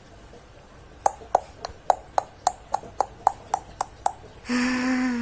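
Sound effect for approaching hounds: a quick run of about a dozen sharp clicks, about four a second, followed near the end by one long howl that drops in pitch as it ends.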